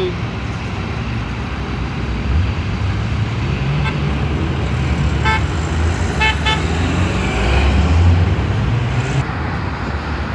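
Car engine and road rumble from a moving car, the engine note climbing and easing a couple of times. A few short beeps come in the middle, one, then another, then a quick cluster of three.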